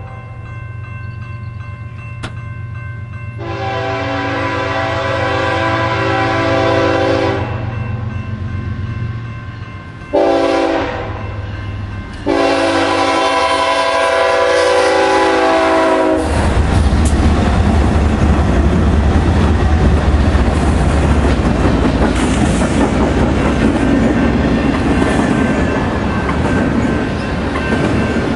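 BNSF freight train's multi-note air horn sounding the grade-crossing signal as it approaches: a long blast, a short one and a final long one, over the low hum of the diesel locomotives. About halfway through, the lead GE locomotives pass with a loud diesel rumble, and the clatter of double-stack container cars rolling by follows.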